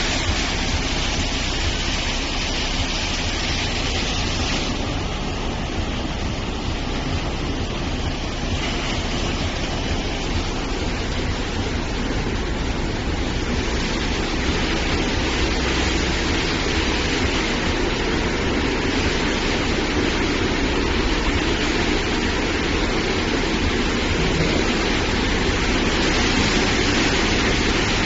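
Tunnel car wash machine running: a steady rush of spraying water over the hum of its machinery. The high hiss eases about five seconds in, and a lower rush grows stronger in the second half.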